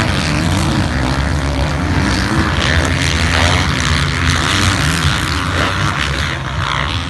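Several motocross bike engines running together during a race: a steady, dense engine drone with overlapping pitches that drift up and down.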